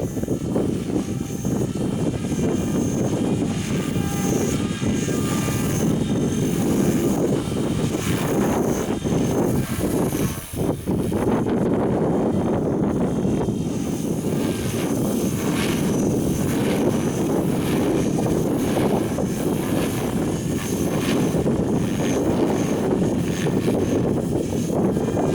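Strong wind buffeting the microphone in a steady low rumble, with a faint high whine from a Forza 450 model aircraft flying.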